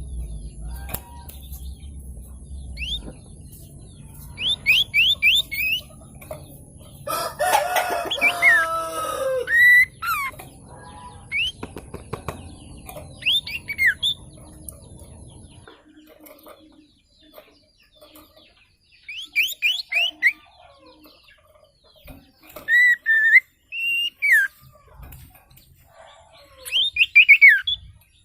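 A wild sirtu bird singing in short bursts of four or five quick, falling whistled notes, repeated several times with pauses between. A louder, lower call, like a rooster crowing, rises over it around the middle of the first half, and a low steady hum runs under the first half.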